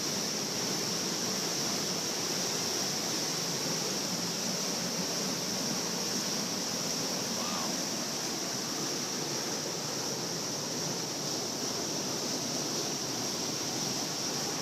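Flood-swollen creek rushing by, a steady unbroken wash of fast-moving water.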